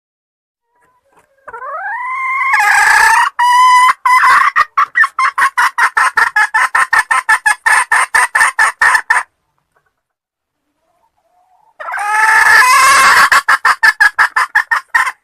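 Junglefowl call played as a hunter's lure: a rising cry about one and a half seconds in that breaks into a fast run of clucks, about five a second, lasting several seconds; after a short silence a second call of the same kind starts near the end.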